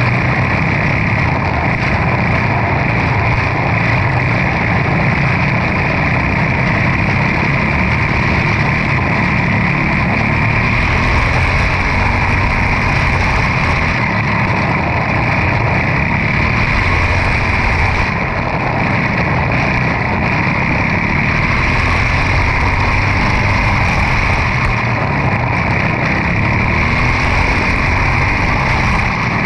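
Quarter midget race car's single-cylinder Briggs & Stratton Animal engine running steadily at race speed.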